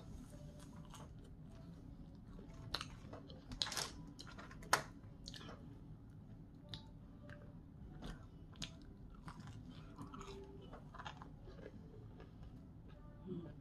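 A person chewing and crunching crispy fried food (seasoned curly fries and breaded chicken tenders) with the mouth, in bites and sharp crunches that are loudest about four seconds in, then quieter chewing and a fresh bite near the end.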